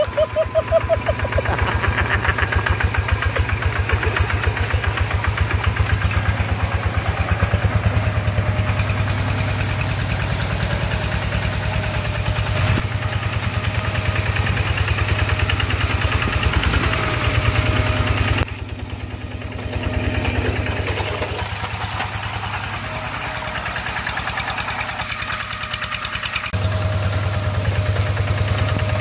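Single-cylinder diesel engine of a two-wheel hand tractor running with a steady, rapid beat while working a rice paddy. It dips briefly about two-thirds in, runs quieter for a few seconds, then comes back to full strength near the end.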